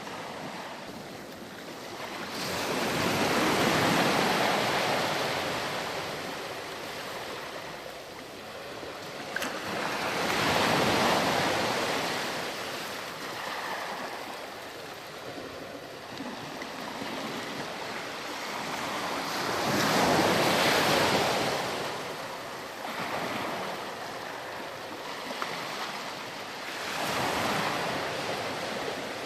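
Ocean waves breaking and washing up a beach, the surf swelling and ebbing in slow surges about every eight or nine seconds, four times.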